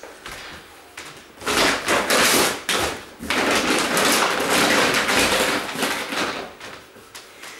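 Plastic trash bags rustling and crinkling as they are handled, in two long stretches, with a few light knocks.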